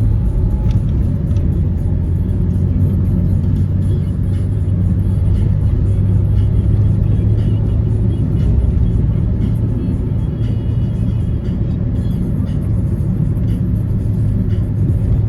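Steady low drone of a motor vehicle running on the road, with music playing alongside.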